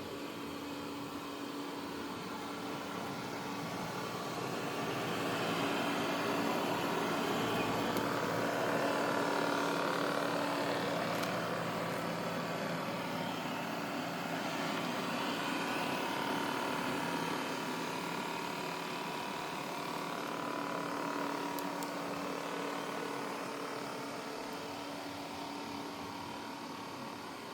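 Roborock S9 robot vacuum running: a steady motor hum with a low steady tone. It grows louder for a while in the middle, then eases off again.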